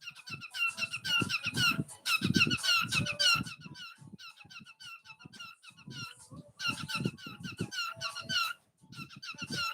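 Cockatiel chattering in fast runs of short, squeaky chirps, in bursts with a break about four seconds in and another near the end, with low soft thuds underneath.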